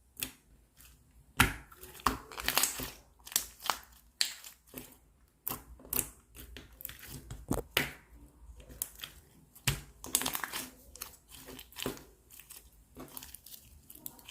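Clear slime being squeezed and worked by hand, giving irregular squishy pops and crackles.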